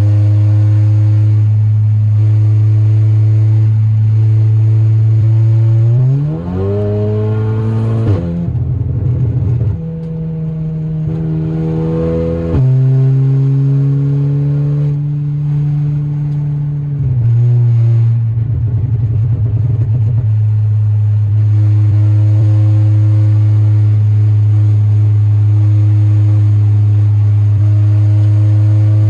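Stage 3 tuned Volkswagen Golf R's turbocharged four-cylinder engine running at a steady cruise, then revving up twice with a sudden drop in pitch between, as at a gear change, before settling back to a steady note.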